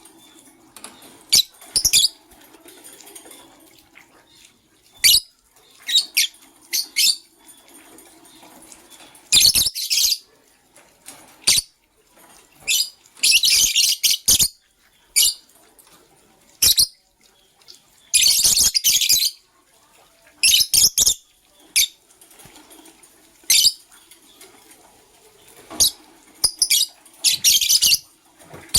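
Lovebirds giving sharp, shrill chirps, broken by several longer bursts of rapid chattering about a second long each.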